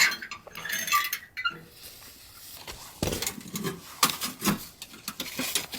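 A series of irregular light clicks and knocks, thickening from about halfway in.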